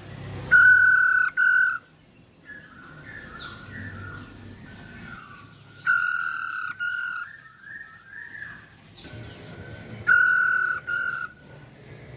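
Female masked laughingthrush calling: three loud two-part calls about four to five seconds apart, with softer warbling chatter between them.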